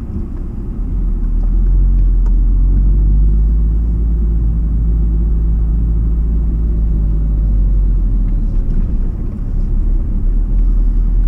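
2010 Audi S3's turbocharged 2.0-litre four-cylinder engine and road rumble as the car is driven, a steady low drone.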